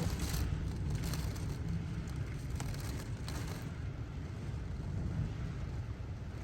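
Typhoon wind blowing steadily and buffeting the microphone in a low rumble, with a few faint clicks.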